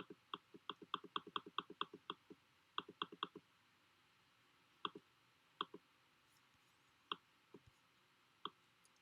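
Computer mouse clicking rapidly, about seven clicks a second, stopping about two seconds in. A short run of clicks follows around three seconds, then a few scattered single clicks.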